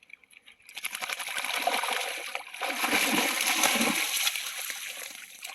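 A dog splashing through shallow water, a churning spray of water that starts about a second in, grows, and tails off near the end.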